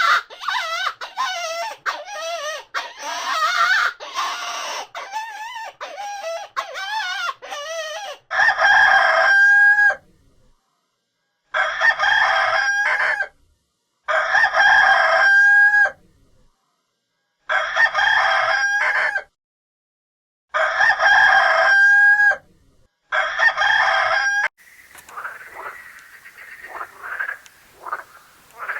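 Chickens clucking for about eight seconds, then a rooster crowing six times, each crow about a second and a half long and ending in a short upward turn. Near the end a different, noisier animal calling begins.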